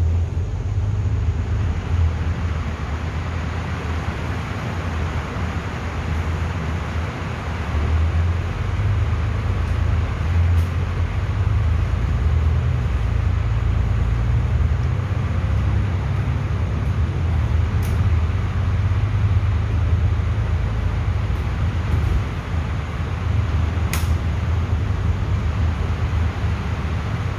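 Bus running through heavy rain: a steady low engine and road rumble under an even hiss of rain and wet tyres, with a few faint clicks.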